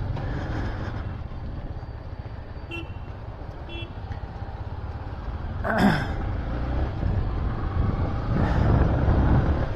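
Road traffic with engines running: a steady low rumble, two short beeps about three seconds in, a brief loud falling tone about six seconds in, and the rumble growing louder near the end as a vehicle comes closer.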